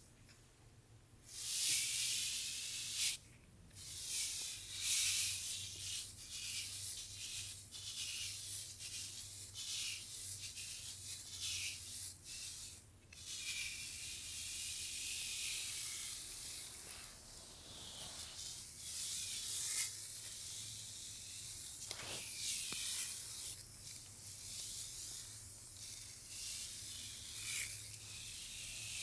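Hair being brushed: repeated rustling brush strokes through the hair, some lasting several seconds, with brief pauses between them.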